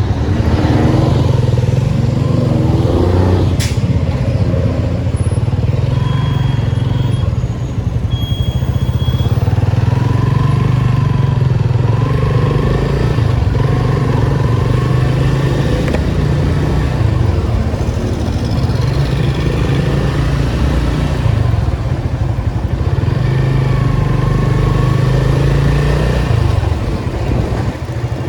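Datsun 280Z's 2.8-litre inline-six engine running loudly while driving in traffic, its note dropping away briefly several times and coming back.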